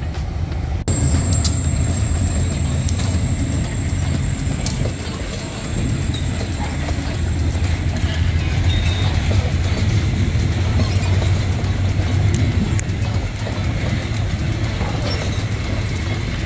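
Diesel train running: the locomotive's engine gives a steady low rumble under scattered metallic clicks from the wagons and wheels. A thin high tone sounds for the first several seconds.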